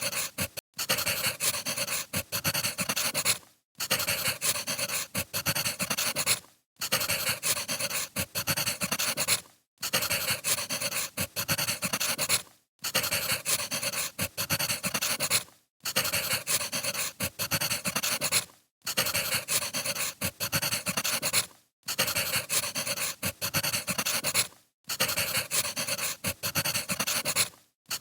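Crackling wood fire, a dense run of pops and crackles, played as a loop that drops to silence for a moment about every three seconds before starting again.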